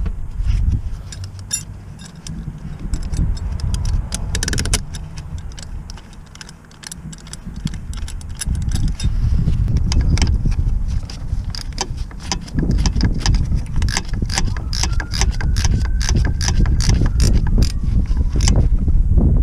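Irregular metallic clicks and clinks of hand tools and parts being handled, growing dense after the first few seconds, over a low rumble.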